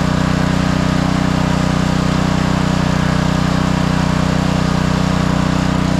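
Gasoline pressure washer engine running steadily at a constant speed.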